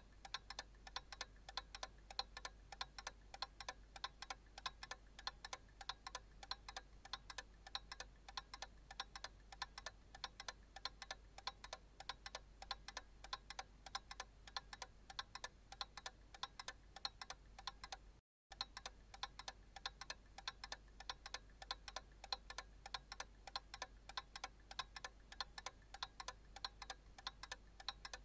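Analog clock ticking in a steady, even rhythm of sharp clicks. The sound cuts out for a split second about eighteen seconds in.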